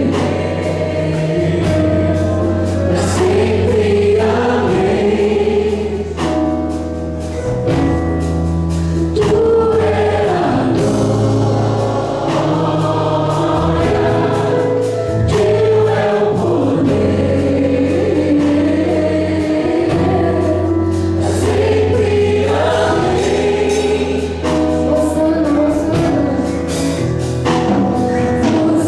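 Christian gospel music: a choir of voices singing over held bass notes.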